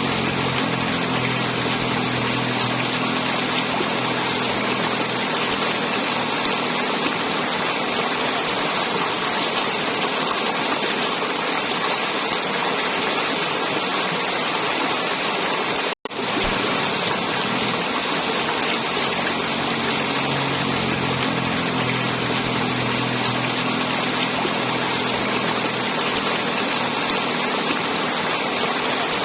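River water flowing and gurgling in a steady rush, with a split-second break in the sound about halfway through.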